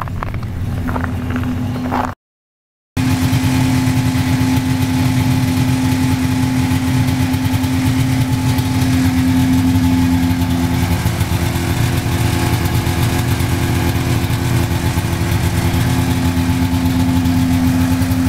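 Car engine idling steadily while it warms up after a cold start. The sound cuts out completely for under a second about two seconds in, then the same steady idle carries on.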